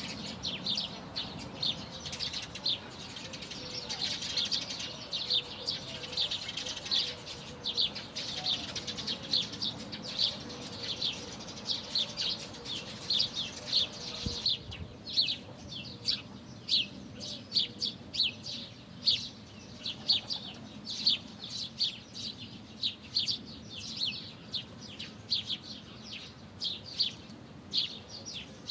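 Birds chirping: a dense run of short, high chirps repeated many times a second.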